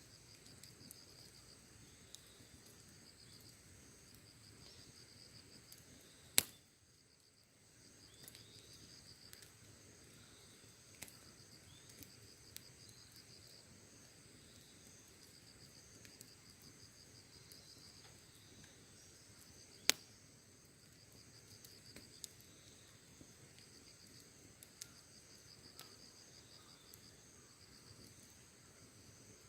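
Campfire crackling with scattered small ticks and two loud sharp pops, about six seconds and twenty seconds in, over steady pulsing chirring of insects.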